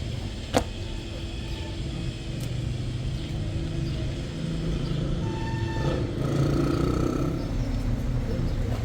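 Steady low rumble of a running vehicle engine, with a single sharp click about half a second in.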